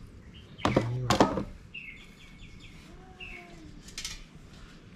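Small birds chirping in short high notes, with a brief clatter about a second in that is the loudest sound.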